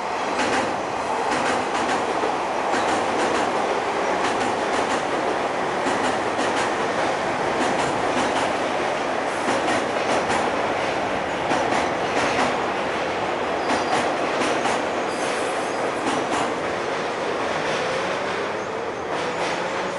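Electric commuter train crossing a steel truss railway bridge: a loud steady rumble with repeated clicks of the wheels over the rail joints, and a faint rising whine near the end.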